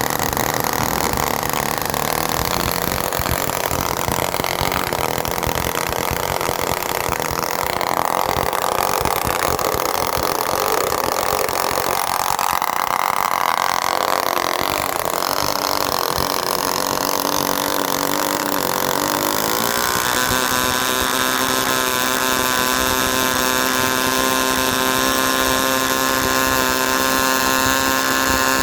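Bullet 27 model aircraft engine running on test. It runs rough and uneven for most of the first two-thirds, then about two-thirds of the way through its pitch rises quickly and it settles into a steady, high-pitched whine.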